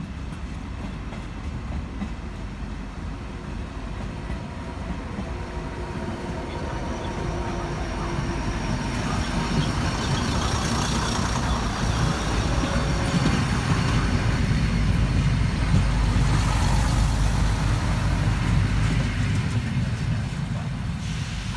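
A train passing, its rumble and wheel noise building steadily, loudest about three quarters of the way through, then easing off.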